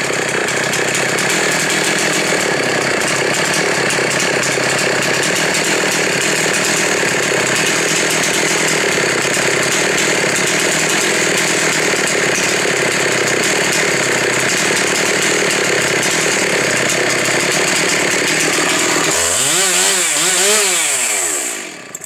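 Husqvarna 372 XP 72 cc two-stroke chainsaw running at high revs, loud and steady. About 19 seconds in, its revs swing up and down three or four times before the saw cuts off at the end.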